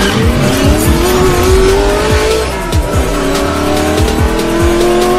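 Hip-hop intro beat with a racing-car engine sound effect revving up, dropping in pitch about two and a half seconds in as if shifting gear, then climbing again, over steady bass-drum hits.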